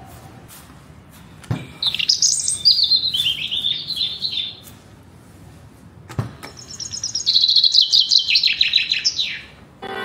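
A songbird singing two phrases, each a quick run of high notes falling in pitch. A short knock comes just before each phrase.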